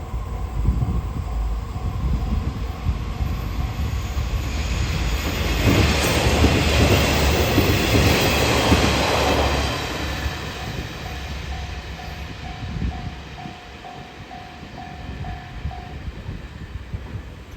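Level-crossing warning bell ringing about twice a second while a diesel railcar passes over the crossing. The train is loudest from about five to ten seconds in, then fades away. The bell stops near the end.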